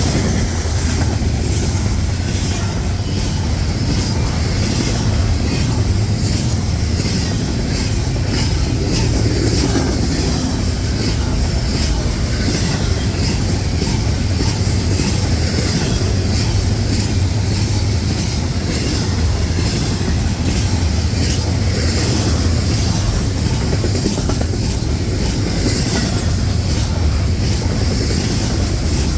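Freight train, an intermodal, rolling steadily past close by: a continuous rumble of cars with wheels clicking over the rail joints.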